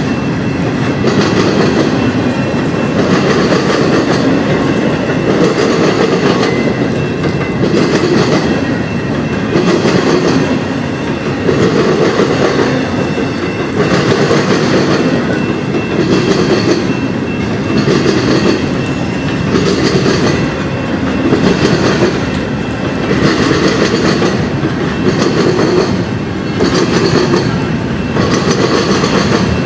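Freight train rolling past, its railcar wheels clacking over rail joints in a steady repeating rhythm under a continuous rumble.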